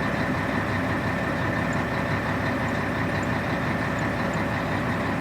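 Scania 113 truck's diesel engine running steadily at idle, an even drone with a thin high whine over it.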